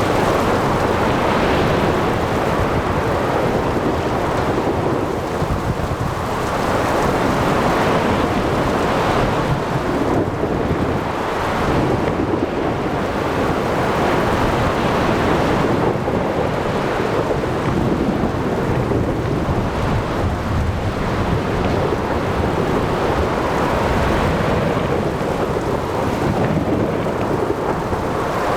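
Thunderstorm at sea: heavy rain and rolling thunder over wind and waves, a dense unbroken rush that swells and eases every few seconds.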